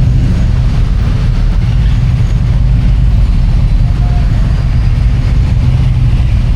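Harley-Davidson Road King's V-twin engine running at low speed, a steady low rumble.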